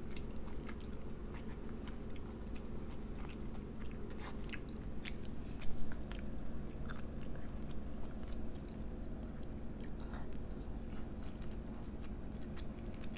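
Close-miked chewing of a mouthful of poke bowl, with many small wet mouth clicks and smacks over a steady low hum. A brief louder knock comes about six seconds in.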